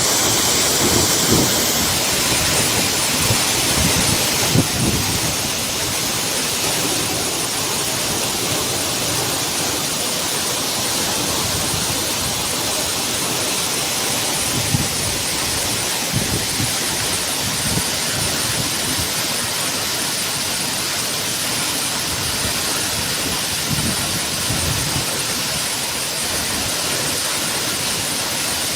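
Torrential rain pouring down as a steady, dense hiss, a little louder in the first few seconds, with a few brief low thumps here and there.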